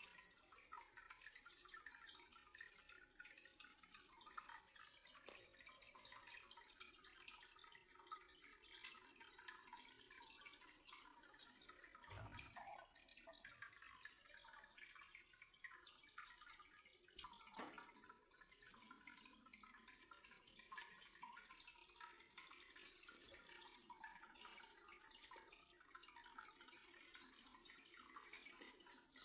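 Faint dripping and trickling water made of many small ticks, with a soft low thump about twelve seconds in and a fainter one a few seconds later.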